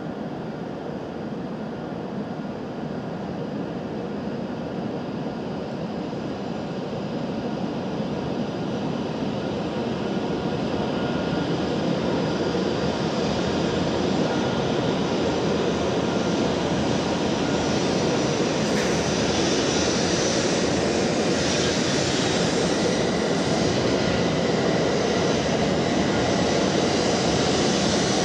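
E7 series Shinkansen train running past on an adjacent track: a steady rumble and rush of running noise with a faint steady whine on top, growing louder over the first dozen seconds and then holding.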